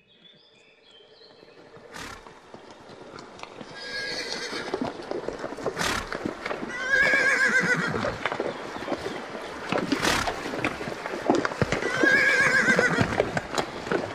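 A horse whinnying twice, over the rapid clatter of hooves.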